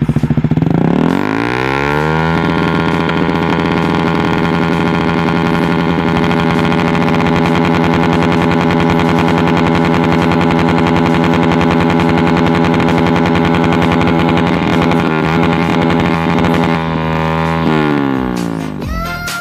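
Yamaha Vixion's single-cylinder four-stroke engine revved through an aftermarket racing exhaust: the revs climb over the first two seconds, are held steady and high for about fifteen seconds, then drop back near the end.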